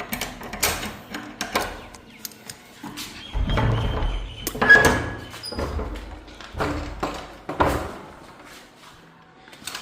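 Kitchen handling sounds: a run of irregular knocks and clicks, with several heavier thumps in the middle, as pots, utensils and doors are moved about.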